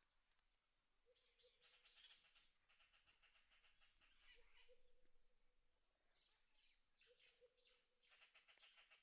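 Faint outdoor bird calls: rapid high trills and chirps, with a low two-note call repeating about every three seconds.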